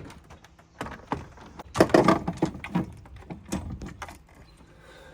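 Irregular knocks and clatter of objects being handled, loudest about two seconds in.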